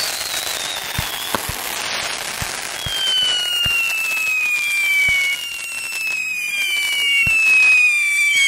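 Consumer fireworks going off: crackling and scattered sharp pops, then from about three seconds in a string of overlapping whistles, each falling in pitch, with more pops among them.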